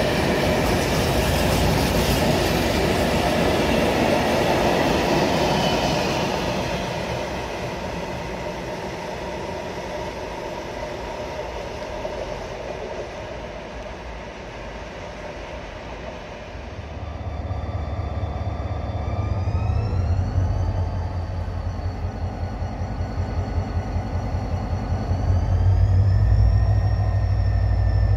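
Railway wagons rolling past with clickety-clack, fading away. Then the EMD GT22HW-2 diesel-electric locomotive's engine powers up in steps, a deep rumble that grows louder with a whine rising in pitch twice.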